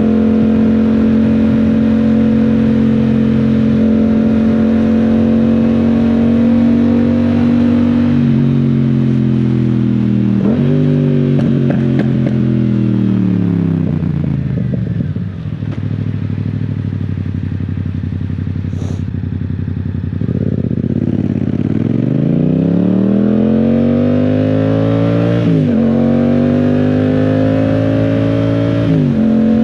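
Yamaha Tracer 700 / MT-07's 689 cc parallel-twin engine under way. It holds a steady note for several seconds, then the revs fall away and run down to a low, slow engine note around the middle. From there it accelerates with rising revs, broken by two upshifts near the end.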